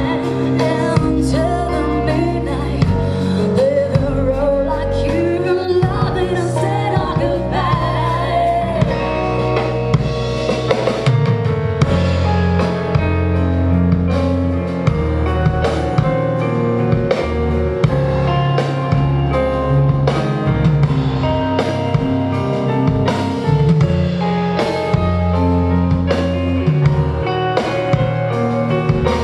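Rock band playing live: a singer's wavering melody over bass and guitar, with the drum kit coming in more strongly about eleven seconds in and driving on steadily.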